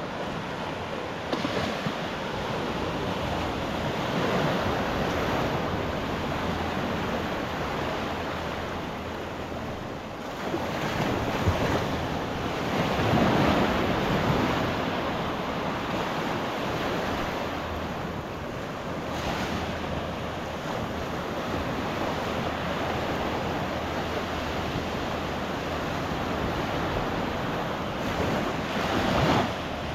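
Gulf surf: small waves breaking and washing up the beach in a continuous rush, swelling louder about halfway through and again near the end. Wind buffets the microphone throughout.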